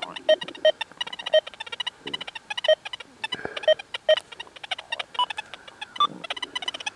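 Deus 2 metal detector's audio giving short, low iron-tone blips several times a second as the coil sweeps over iron nails, with a couple of higher-pitched blips about five and six seconds in, amid scattered clicks.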